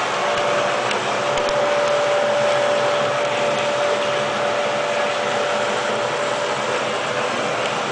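Steady whirring of a homemade water-heating system running under pressure, with a steady whine through most of it.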